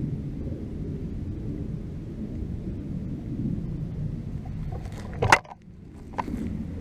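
Wind rumbling on the microphone, with one sharp knock about five seconds in.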